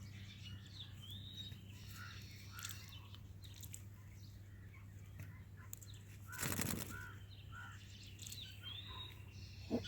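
Indian ringneck parrot giving short soft chirps with quick rising notes, and one brief loud flurry about six and a half seconds in, over a steady low hum.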